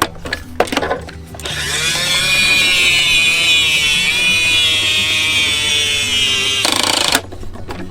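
A few plastic clicks, then a loud whirring whine from a toy garbage truck's motor starts about a second and a half in, its pitch sagging slightly midway, and cuts off near the end, followed by more light clicks. Background music runs underneath.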